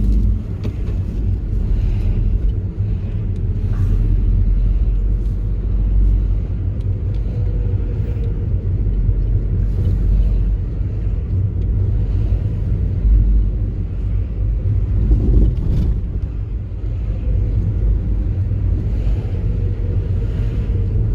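Car driving: a steady low engine and road rumble heard from inside the cabin.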